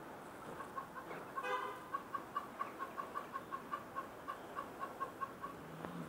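A bird calling: a louder, harsher note about a second and a half in, then a steady run of short, evenly spaced notes, about five a second.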